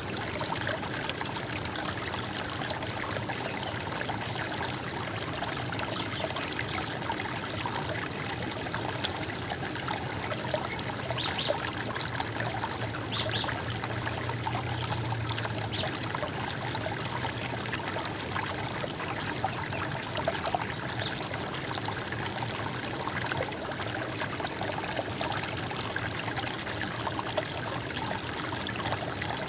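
Running water trickling and gurgling steadily, like a small stream or water flowing over stones.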